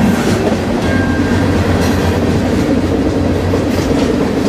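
Freight train rolling along, heard from aboard: a loud, steady rumble and rattle of wheels on rail, with a brief faint squeal about a second in.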